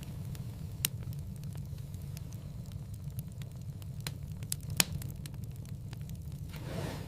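Wood fire in a fireplace crackling: frequent small snaps over a steady low rumble of the flames, with two louder pops, about a second in and near five seconds. A brief soft swell of hiss comes near the end.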